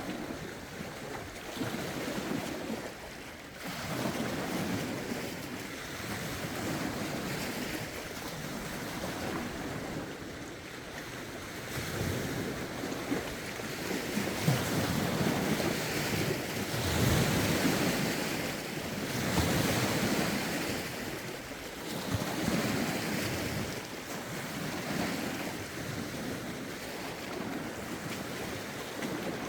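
Lake waves lapping and washing ashore in swells every few seconds, with wind blowing over the microphone.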